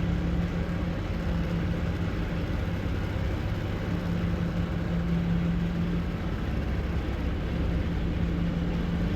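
Semi truck's diesel engine idling steadily, a constant low hum.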